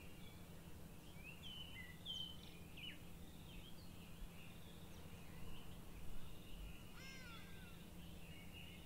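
Songbirds chirping and whistling in short scattered calls, with one louder call falling in pitch about seven seconds in, over a steady low hum. A soft low bump comes around six seconds in.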